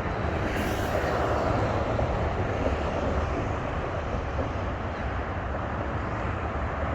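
A steady, noisy outdoor rumble with no distinct events.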